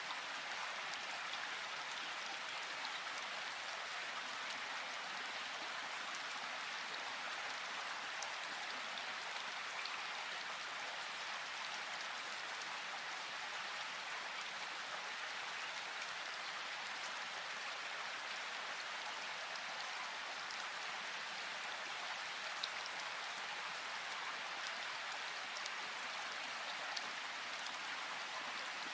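Steady rain falling, an even patter with the odd sharper drop hit standing out.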